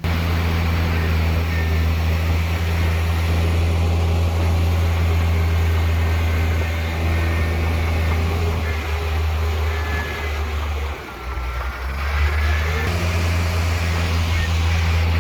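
Heavy diesel engine of earthmoving machinery running steadily with a deep, even drone. It dips briefly about eleven seconds in, then picks up again.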